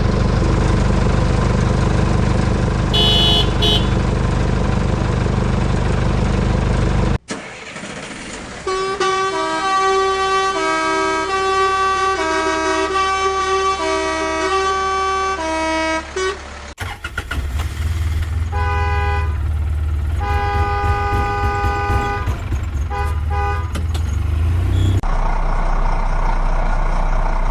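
Vehicle horns tooting over a steady engine rumble. The rumble runs alone at first with one short horn toot. After an abrupt cut comes a long run of short horn toots alternating between two notes, then the engine rumble and horn toots return together.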